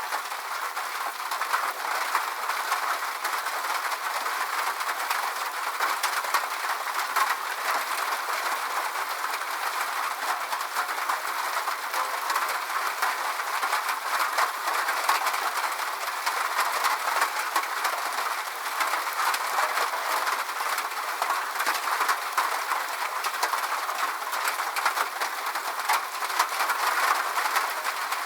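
Steady rain falling: an even hiss with a fine patter of drops throughout and no low rumble.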